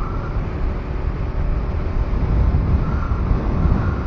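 2025 KTM 390 Enduro R's single-cylinder engine running steadily under way, a low rumble mixed with riding noise.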